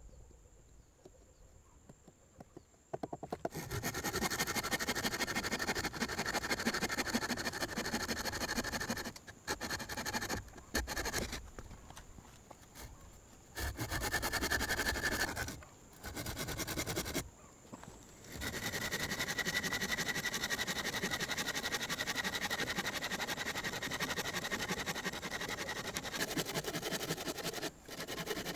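Dense scratching and scraping noise that starts about three seconds in and runs in long stretches, broken by several short pauses.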